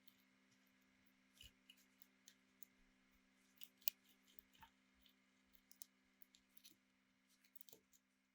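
Near silence: faint, irregular small clicks and handling noises over a low, steady hum, with one sharper click about four seconds in.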